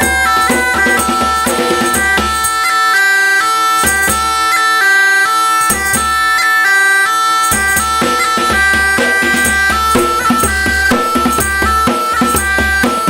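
Folk tune played live on bagpipes, a steady drone under the chanter's melody, with an African hand drum beating the rhythm. The deep low notes drop out for a few stretches about three to seven seconds in, then return.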